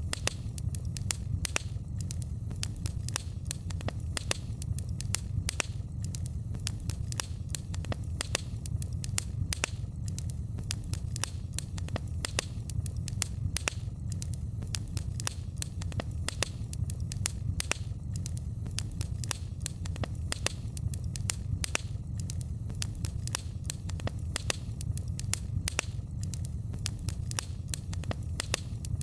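Wood fire in a fireplace crackling steadily, with frequent sharp pops and snaps over a low, even rumble of flames.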